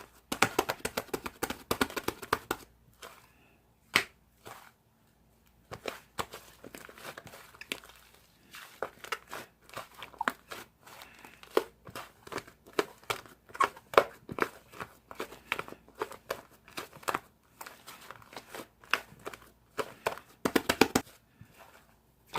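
Slime being pressed, poked and stretched by hand, giving dense runs of small clicks and crackly pops in irregular bursts with short pauses between them.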